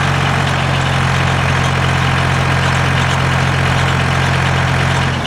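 Engine driving a belt-driven sawmill, running at a steady speed with a low, even hum, before any log is being cut.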